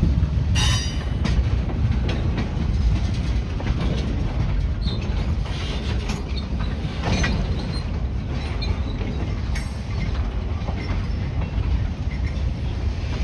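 Freight train boxcars rolling through a grade crossing: a steady low rolling noise of wheels on rail. Short high metallic squeals and clanks come about a second in, about seven seconds in and near ten seconds.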